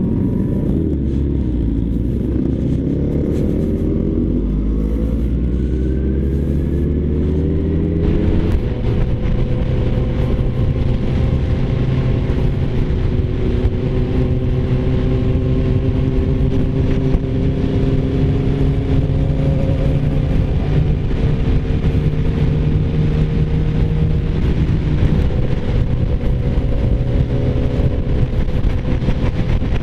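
Inline-four engine of a Suzuki sportbike accelerating, rising in pitch through the gears for about the first eight seconds, then holding a steady note while cruising at highway speed, with wind rushing past the microphone.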